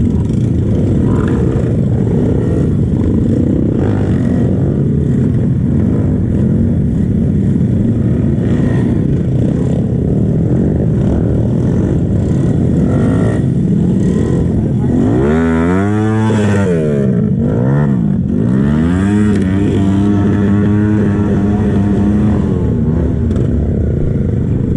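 Kawasaki KLX trail bike's single-cylinder four-stroke engine on its stock exhaust, running under load off-road. About fifteen seconds in it revs sharply up and down twice, then holds higher revs for a few seconds before dropping back.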